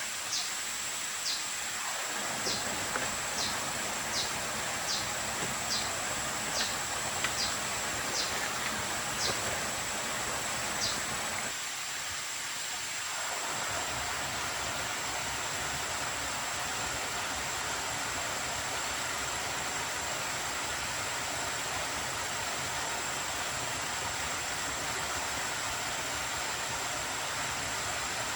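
Forest ambience: a steady hiss of rain or running water under a constant high insect drone. Short, high, falling chirps come about once or twice a second for the first ten seconds or so, then stop.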